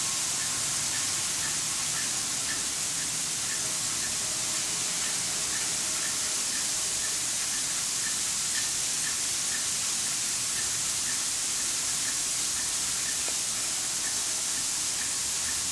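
Steady high-pitched hiss, with faint short ticks repeating about twice a second.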